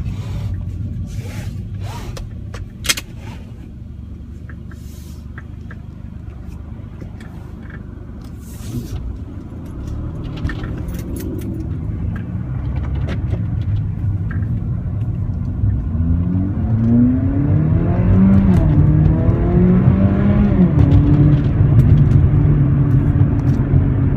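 Mercedes-AMG CLA45's turbocharged four-cylinder engine running low and steady, with a sharp click about three seconds in. Then the car pulls away and accelerates, its engine note rising and dropping back several times as it shifts up through the gears, heard from inside the cabin with the windows up.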